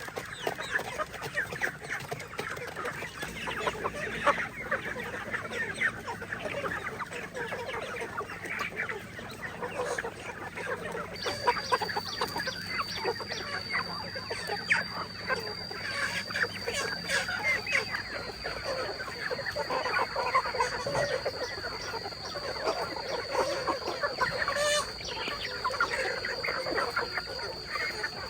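A flock of free-range chickens clucking and chattering continuously, many birds calling over one another while being fed. A steady thin high-pitched tone joins in about eleven seconds in and carries on to the end.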